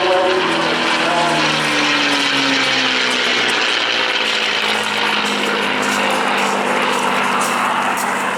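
North American P-51D Mustang's Packard Merlin V-12 engine and propeller in a fly-by. The engine note falls in pitch over the first three or four seconds as the aircraft goes past, then holds steady.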